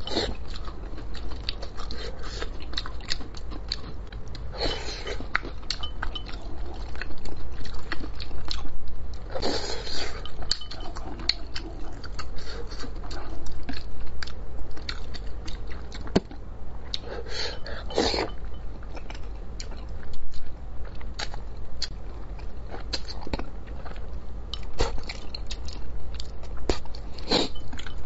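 Close-miked chewing and wet mouth sounds of a man eating spicy braised fish, with many small clicks and a few louder bursts.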